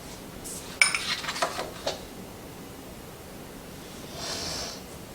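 Kitchen utensils clinking against dishes: a quick cluster of sharp ringing clinks lasting about a second, the first the loudest, followed a few seconds later by a brief soft hiss.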